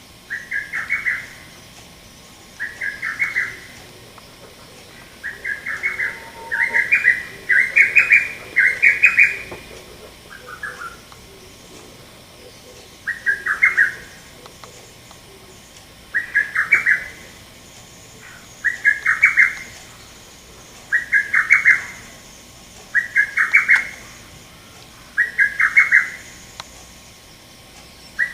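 Male lesser cuckoo singing its sharp, staccato song of several quick notes. The phrase repeats every two to three seconds, with a faster run of phrases about six to nine seconds in and a short pause after.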